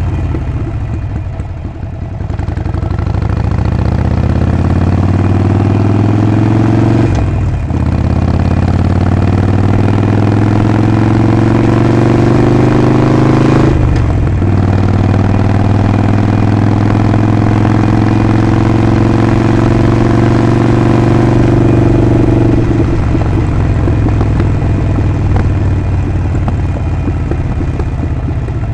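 Harley-Davidson Sportster 48's 1200 cc air-cooled V-twin and exhaust on the move. It pulls away with the engine pitch rising, with two brief breaks for upshifts about 7 and 14 seconds in, then holds a steady cruise. Near the end the engine pitch falls as the throttle rolls off.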